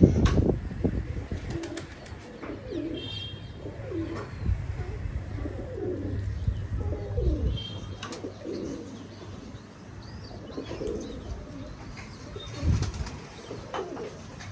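Pigeons cooing over and over in low, rolling calls, with a loud knock right at the start and another near the end.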